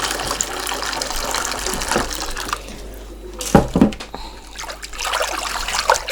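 Water running from a tap into a sink, easing off about two and a half seconds in, with two sharp knocks about three and a half seconds in.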